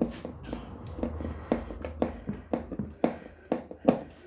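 Sharp, irregular clicks and knocks, about two or three a second, of a hand tool working on a washing machine's plastic and metal parts while the spin motor's shock-absorber mounting is undone.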